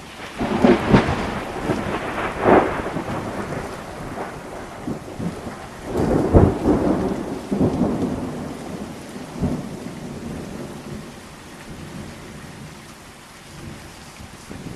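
Thunder over steady heavy rain. A sharp crackling peal starts about half a second in, with further cracks near one and two and a half seconds, and a second long peal peaks around six to eight seconds. Both peals trail off into rumbling, leaving the rain alone near the end.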